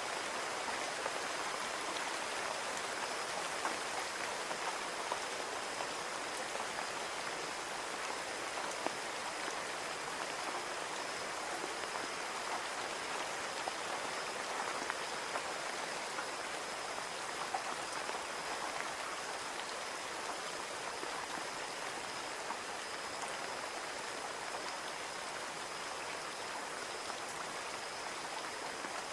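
Steady rain falling on a window, a continuous patter with many small individual drop ticks, and a faint high steady tone running under it.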